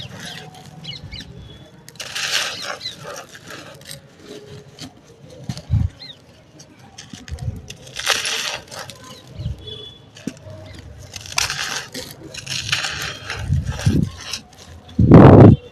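Dry sand-cement chunks being crumbled and crushed, in separate crunchy, gritty bursts every few seconds, with a heavy thump near the end.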